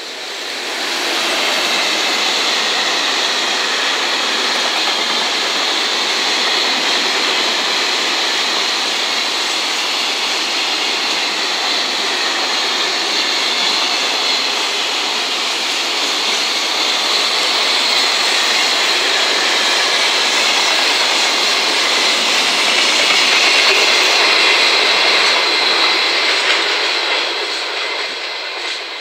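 JR Freight EF210 electric locomotive passing, followed by its container wagons: a steady, loud rush of steel wheels on rail with a thin high ringing over it. It rises in the first second or two and eases off near the end as the train draws away.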